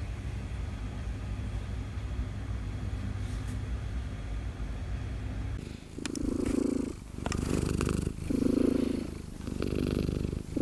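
Kitten purring, a steady low hum. About halfway through, the purr grows louder and swells and eases about once a second, with a few brief clicks among the swells.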